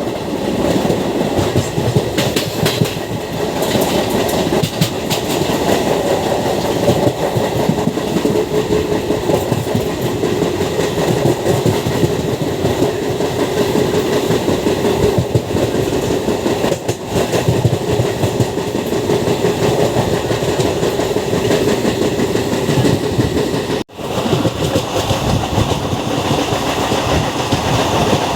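MEMU electric suburban train running at speed, heard on board: steady rumble and clickety-clack of the wheels on the rails, with a steady hum under it. The sound cuts out suddenly for a moment about four seconds before the end.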